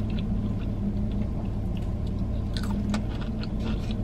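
A mouthful of fried chicken sandwich being chewed with the mouth closed: soft, wet chewing with small crackles, a few sharper ones near the end. Underneath runs a steady low hum inside the car.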